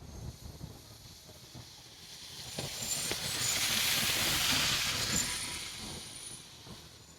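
A train going past: a hiss of wheel and rail noise that swells over a couple of seconds and then fades away, with a few brief high squeals from the wheels.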